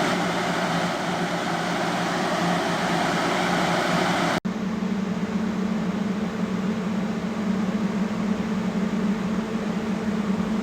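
Power Breezer evaporative cooler's fan running steadily at its top speed, a loud rushing of air with a low hum. About four seconds in there is a sudden cut to the same kind of steady fan noise with less hiss and a stronger low hum.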